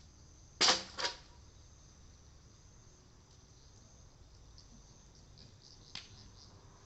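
Cedar wood burning in a bonfire and cracking: two sharp, loud pops about half a second apart, then a smaller crack near the end. Insects chirr steadily underneath.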